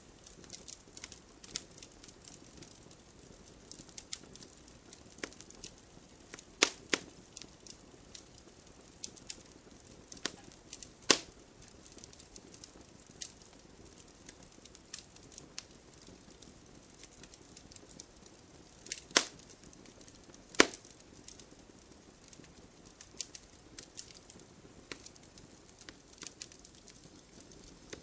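Wood fire crackling: irregular small pops and snaps over a faint steady hiss. A few louder sharp pops stand out, two of them about a second and a half apart some two-thirds of the way through.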